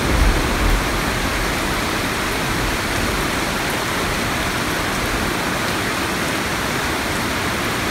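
Steady rain falling on trees and a curved corrugated metal roof, an even hiss throughout. A low thunder rumble dies away in the first second.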